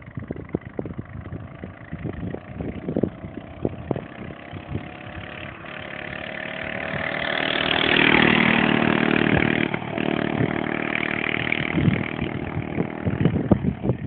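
Baja Doodlebug DB30 minibike's 97cc four-stroke engine running through a custom extended header exhaust. It swells to its loudest about eight seconds in, then eases back a little.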